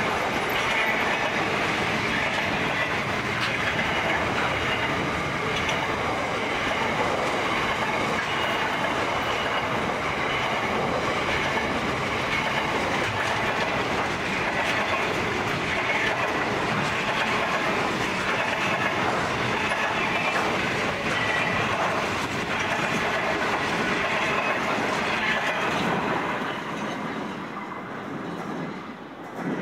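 Container wagons of a long freight train rolling past, steel wheels running and clattering over the rails in a steady, even rumble. The sound fades away as the end of the train passes, from about 26 seconds in.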